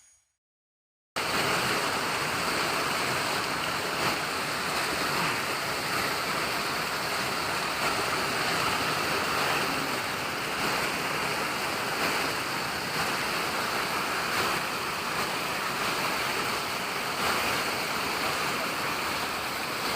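Waterfall rushing: a steady, even wash of falling water that cuts in about a second in, after a moment of dead silence.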